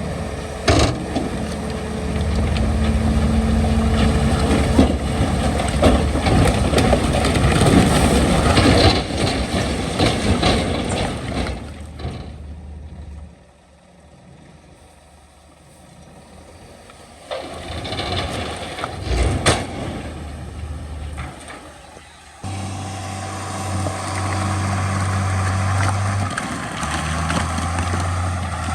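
Heavy diesel earthmoving machinery working, with a noisy engine rumble and clatter. It drops to a quieter stretch a little past the middle, then a steady low engine hum starts abruptly near the end.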